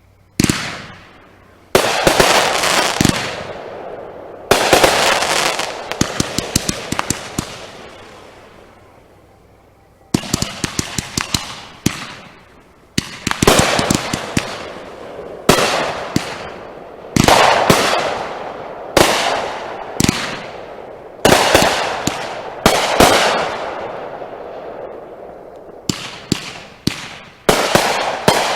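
Consumer aerial fireworks going off in a rapid series of loud bursts, one every second or two. Each bang trails off into crackle and echo, and there are quick strings of sharp pops in between.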